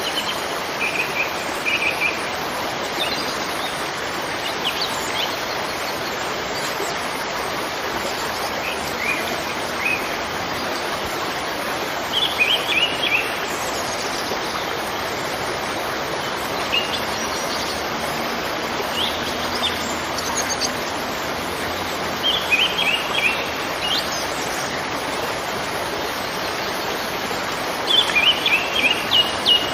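Steady rushing of a waterfall, with small birds chirping in short quick bursts every several seconds.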